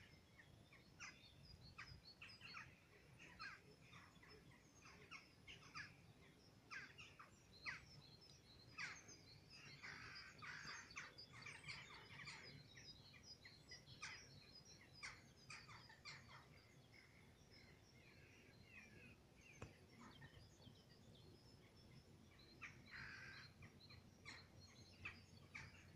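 Faint outdoor birdsong: many small birds chirping in short, scattered notes, with a few harsher calls among them.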